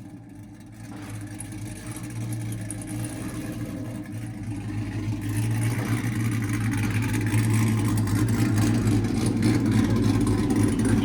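Cammed 5.3-litre V8 of a Chevy Tahoe running through new Speed Engineering headers and a Corsa Pro muffler: a steady low exhaust note that grows steadily louder over the second half.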